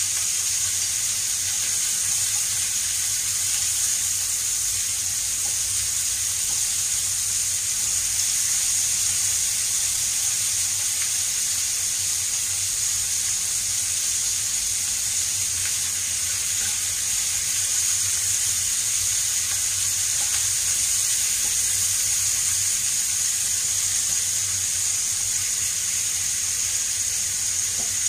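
Beef ribs and sliced onion frying in oil in a pan, a steady sizzle with no break.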